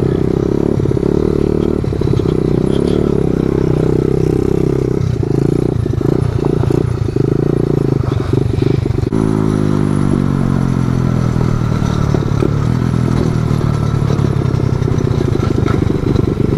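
Small dirt bike engine running on the move, its revs rising and falling, then dropping away in a long falling pitch about nine seconds in as the bike slows.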